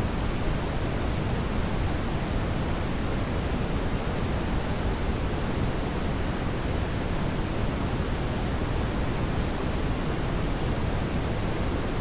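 Steady brown noise: an even, deep rushing hiss, strongest in the low end, without change.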